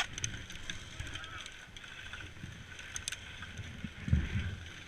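Faint wind and rustling noise on the microphone, with a muffled low bump about four seconds in.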